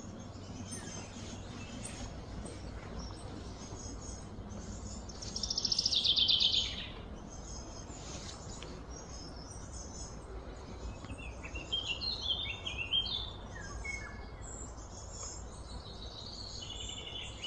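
Wild birds chirping and singing, with one loud, fast trill that falls in pitch about five seconds in and lasts over a second, and a quicker run of chirps later on. A steady low background hum lies under them.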